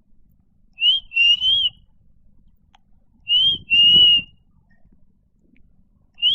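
Clear whistling, in two matching phrases: each a short rising note followed by a longer, slightly wavering note, with a brief rising note near the end.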